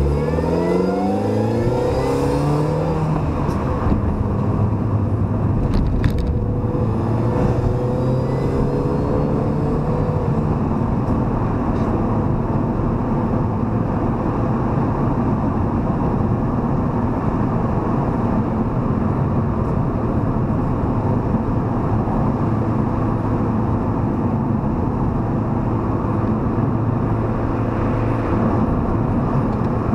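MINI Cooper S (R53) engine heard from inside the cabin, pulling up through the revs with a rising pitch in the first few seconds and again around eight seconds in. It then holds a steady cruise over constant road noise.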